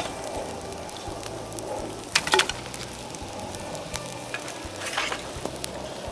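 Bonfire of dead bamboo crackling steadily, with a cluster of sharp pops about two seconds in and another near five seconds.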